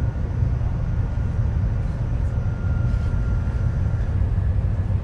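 Steady low rumble of a Tokaido Shinkansen Kodama train running.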